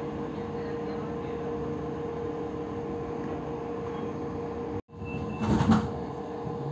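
Passenger train running, heard from inside the carriage: a steady rumble with a constant hum. After a sudden cut about five seconds in there is a short high beep, then a brief loud burst of noise.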